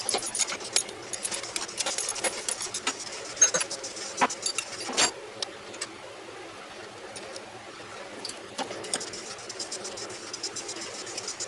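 Irregular metallic clicks and clinks of hand tools and engine parts being handled, most frequent in the first half and sparser later.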